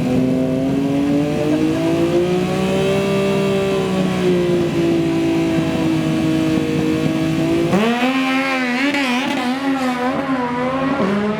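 Racing motorcycle engine held at high revs, its pitch rising and falling slowly. About eight seconds in it changes abruptly to a lower pitch that wavers quickly up and down.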